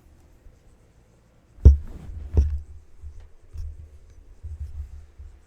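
Microphone handling noise: two sharp knocks with deep thumps, a little under a second apart, then on-and-off low rumbling bumps as the mic is moved about.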